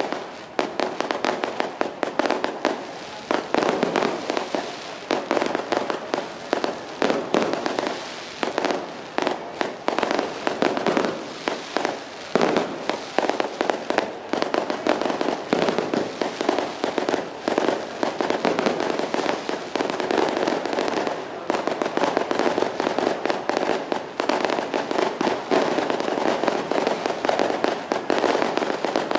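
Firecrackers going off in a dense, unbroken rapid string of bangs.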